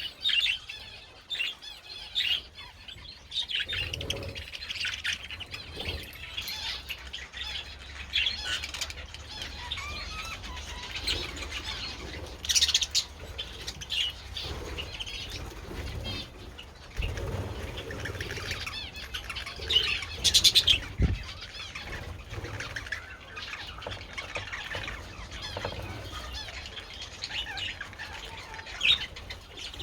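A flock of budgerigars chattering and chirping continuously, with wings flapping. There are louder bursts about twelve seconds in and again about twenty seconds in.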